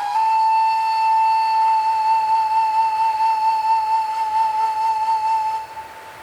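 A single long flute note held steady with a slight waver. It starts with a small dip in pitch and stops near the end, leaving a faint wind-like hiss underneath.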